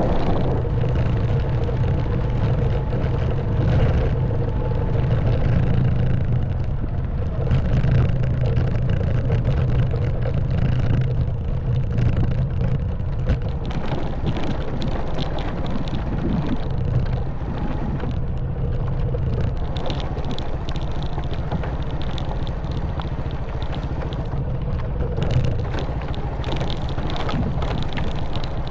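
Honda Wave 110cc single-cylinder four-stroke engine running steadily at low speed, with frequent small knocks and rattles as the motorbike rides over a rough stone track.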